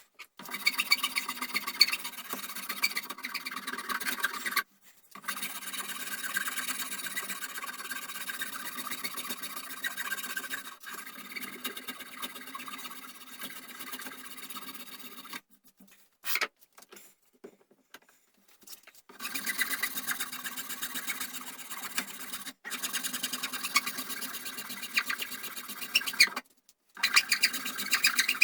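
A small electric power tool running steadily in several stretches, broken off abruptly by short gaps.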